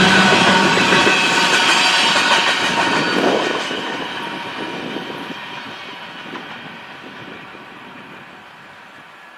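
BNSF coal train passing, with its diesel locomotives' steady engine tones and wheels on the rails loud at first. The sound fades away steadily from about three and a half seconds in as the train moves off.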